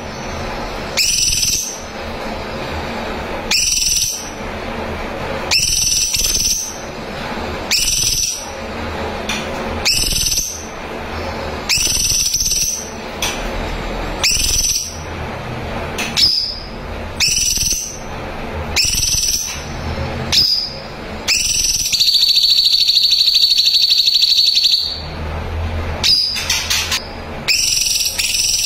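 Cucak cungkok singing: short, loud whistled calls repeated about every two seconds. Later comes one long, even trilled note lasting about three seconds, followed by a few quick call fragments.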